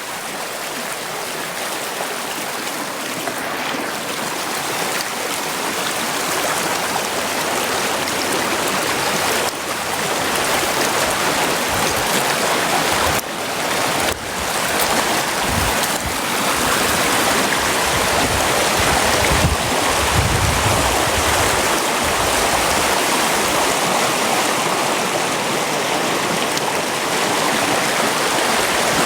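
A brook running steadily, a continuous rushing of water, with some brief low rumbles around the middle.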